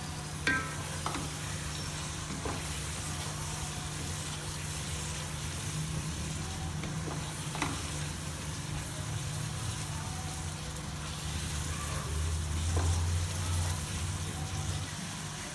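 Potato and spice masala sizzling in a pot as it is fried down and stirred with a wooden spoon, with a few knocks of the spoon against the pot over a low steady hum.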